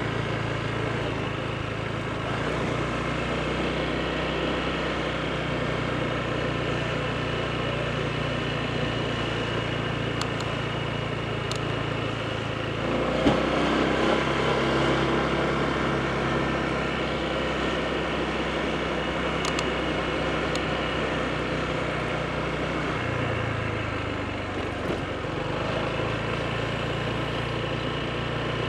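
Honda PCX scooter's single-cylinder engine running while riding, with wind and road noise. About halfway through it grows louder and its pitch changes, and the pitch shifts again later.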